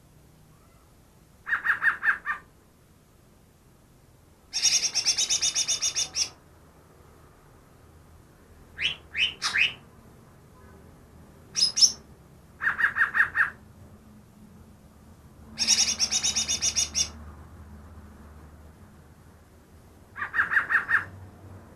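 Greater green leafbird (cucak ijo) singing in separate short phrases a few seconds apart, switching between a lower pulsed trill, a faster high chatter and a few quick downward-sweeping whistles, which the uploader takes for imitations of other bird species.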